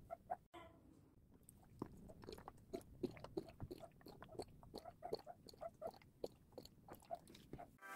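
Faint chewing and crunching: irregular small clicks, a few a second.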